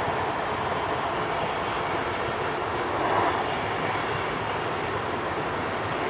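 A train running past, a steady rolling noise of wheels on the rails that swells slightly about three seconds in, with no horn.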